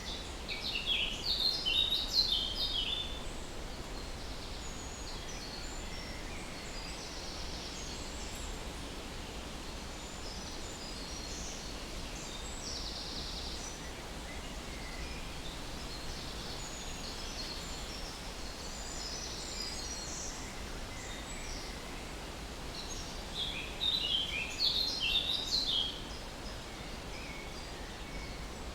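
Songbirds singing outdoors: a loud rapid chirping phrase about a second in and another near the end, with fainter scattered chirps between, over a steady background hiss.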